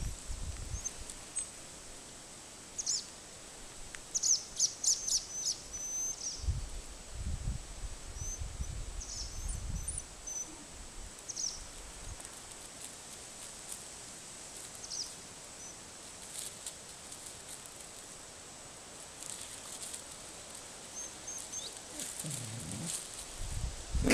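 Small birds giving short, high chirps in scattered runs over steady outdoor background noise, with a few low rumbles in between.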